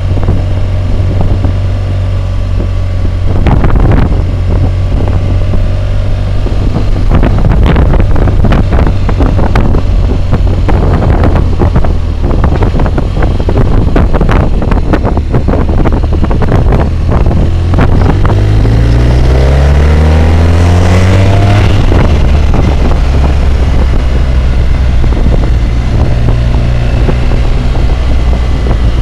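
BMW motorcycle engine running under way, mixed with loud wind roar and buffeting on a helmet-mounted camera's microphone. About two-thirds through, the engine rises in pitch as it accelerates, then drops back.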